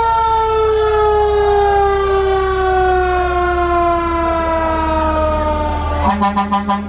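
Fire engine siren winding slowly down in pitch after a quick rise, followed near the end by a rapid string of about six short horn blasts.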